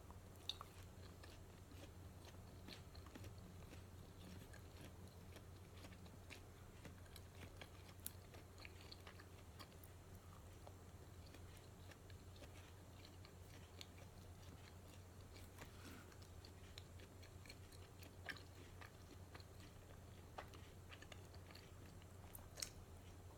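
Chewing and biting of a Mister Donut matcha donut, recorded close to the mouth: soft mouth sounds with many small scattered clicks and a few sharper ones, over a low steady hum.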